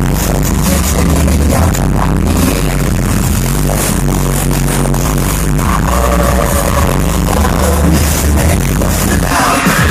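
Live electronic K-pop music played loud over a concert sound system, heavy bass distorting the recording; a vocal line comes in over the beat about six seconds in and again near the end.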